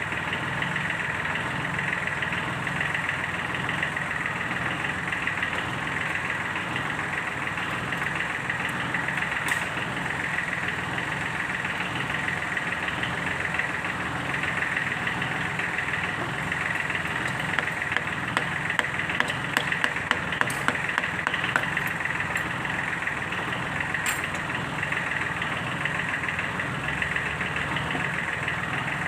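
Kubota D1462-TV three-cylinder diesel engine of a Sunshine L1-255 tractor idling steadily, with a run of sharp clicks about two-thirds of the way through.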